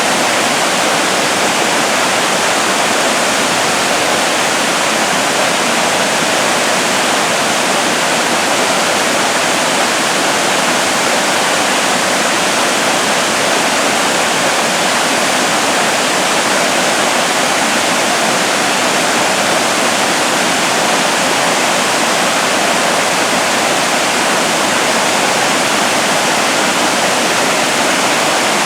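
Loud, steady rushing water, an even roar of falling or fast-flowing water with no change over the whole stretch.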